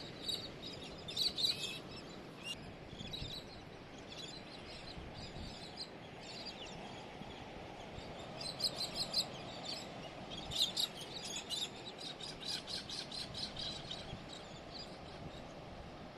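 A flock of galahs calling with short, high-pitched chirps that come in bursts, busiest in the second half, over a steady background rush.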